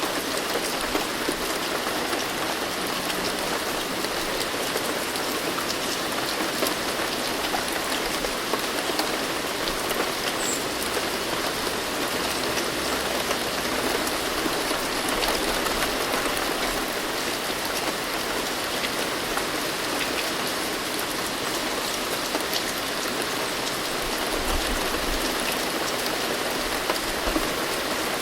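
Steady rain falling on a hard surface, a dense even hiss of many fine drop patters with no let-up.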